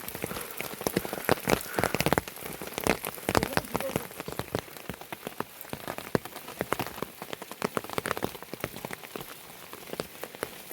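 Heavy rain, with large drops landing on a hard surface as a dense, irregular patter of sharp taps over a soft hiss.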